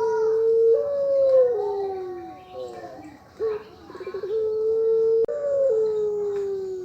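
Puter pelung dove giving two long, drawn-out coos of the long, high 'ngelik' type. Each opens with a short stuttering note, holds a steady tone, then steps up and glides slowly down.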